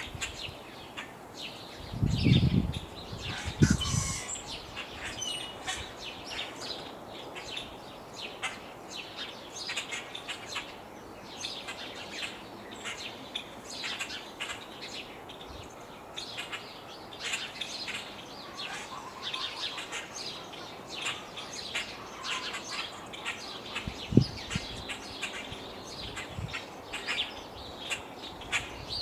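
Many small birds chirping in quick, overlapping short calls, with gusts of wind buffeting the microphone a couple of seconds in and again briefly later on.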